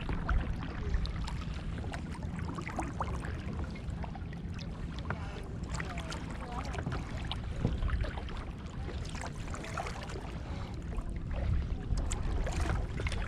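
Kayak paddling: paddle blades dipping, water splashing and dripping in many small irregular splashes, over a steady low rumble.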